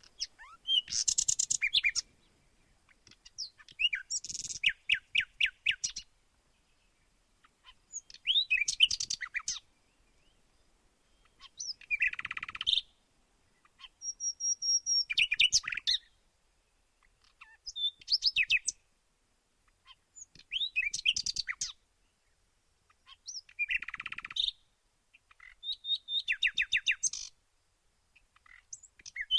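Songbirds singing in short phrases of fast repeated notes and trills, about ten phrases each a second or two long, with near-silent pauses between them.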